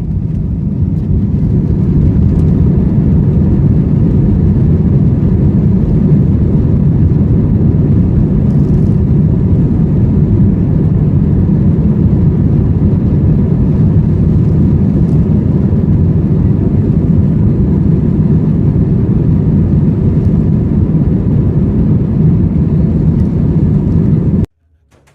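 Airbus A320 jet engines at take-off thrust heard from inside the cabin during the take-off roll and climb: a loud, steady low rumble that builds over the first couple of seconds, then holds. It cuts off suddenly near the end.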